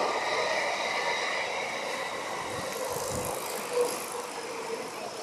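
Stadler FLIRT electric commuter train running away into the distance, its rail noise fading steadily.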